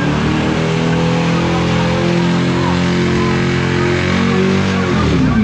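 A car engine held at steady high revs while the car does donuts, with a hiss of tyre noise behind it. The revs drop away about five seconds in.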